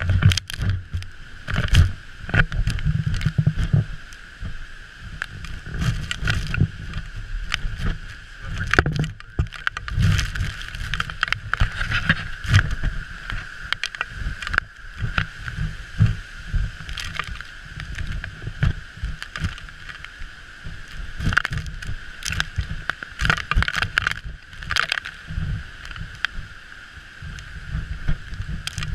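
Storm at sea aboard a ship: heavy low rumbling and repeated sudden gusts and slams of wind and waves, over a steady high hum.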